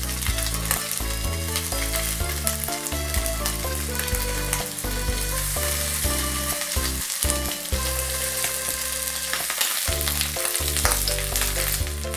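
Pork-wrapped rice balls frying in oil in a frying pan, sizzling steadily as they brown over medium heat. Light background music plays underneath.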